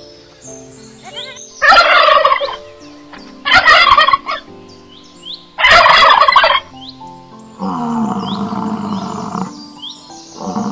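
Domestic turkey tom in full strut gobbling loudly three times, each gobble a rattling call of about a second. A longer, lower animal call follows near the end, over soft background music.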